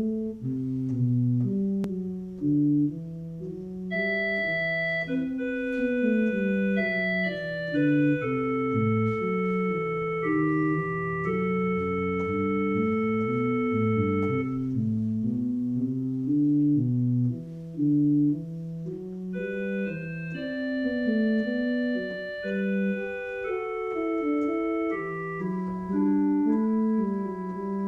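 Organ music: sustained chords moving step by step over a walking bass line.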